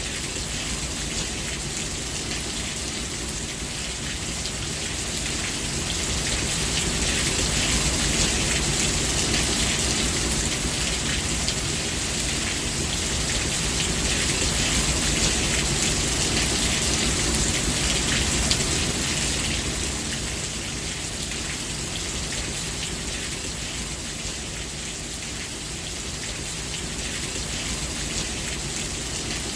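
Steady rain falling, a dense even hiss that swells louder for several seconds in the middle and then eases back.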